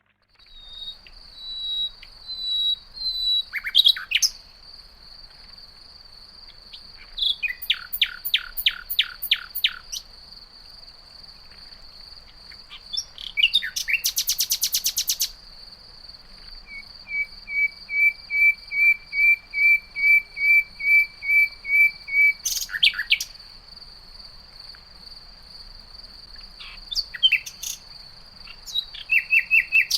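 Common nightingale singing in separate, varied phrases: a fast run of repeated notes, a harsh buzzy burst, and a long string of even, loud whistled notes. Under it runs a steady high insect trill.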